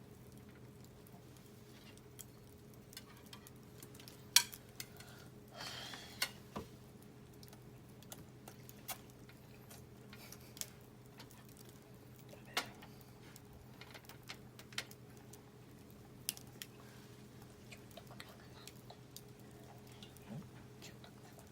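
Scattered sharp clicks and light taps, a dozen or so at uneven intervals over a faint steady hum, the loudest snap about four seconds in.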